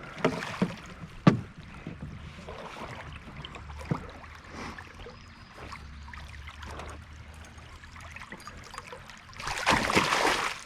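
Sounds of a canoe on a river: water around the hull and a few sharp knocks against it, with a louder stretch of water noise about a second before the end.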